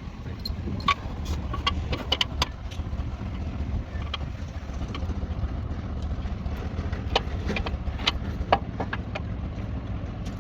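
An engine running steadily at idle, with a scattering of sharp metallic clinks and knocks from work on the vehicle, in two clusters.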